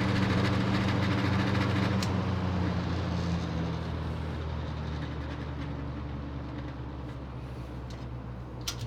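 Vintage 1970s Hunter 20-inch seven-blade box fan running, a steady motor hum under the rush of air from the blades. Its motor is still dry, in need of oil. The sound slowly fades, then a click near the end, after which it grows louder again.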